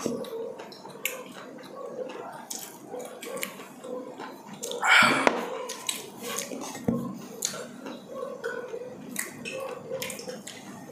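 Close-miked eating sounds: wet chewing and lip smacks in quick, uneven clicks as fish is eaten by hand, with one louder mouth or throat sound about five seconds in.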